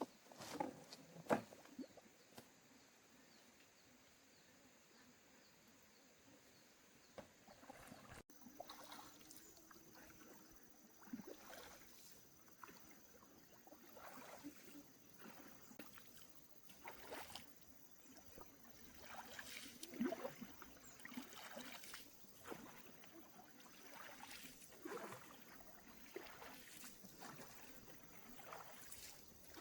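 Faint water sounds from a small boat being paddled: irregular splashes and sloshing with a few light knocks.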